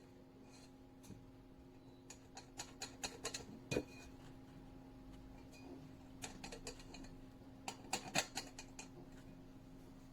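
Two runs of small, sharp clicks and taps, one about two to four seconds in and another near eight seconds, over a faint steady hum.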